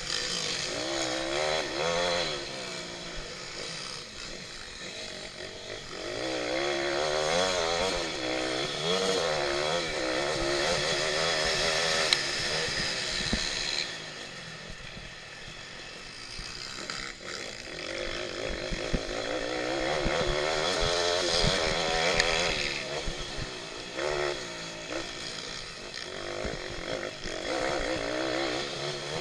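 Small single-cylinder pit bike engine revving hard, its pitch rising and falling again and again through gear changes and corners, with two quieter, lower stretches about a sixth and halfway through.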